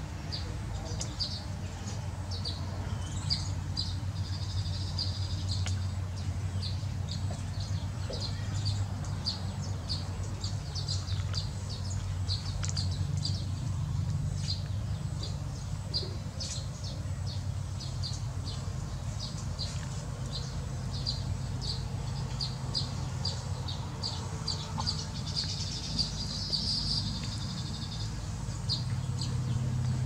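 Small birds chirping: a steady run of short high chirps, about two a second, with a brief buzzy trill a few seconds in and again near the end. A steady low rumble sits underneath.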